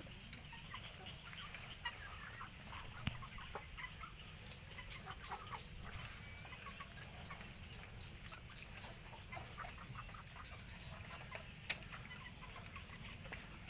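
Birds calling: many short, scattered chirps and clucks, over a steady low rumble.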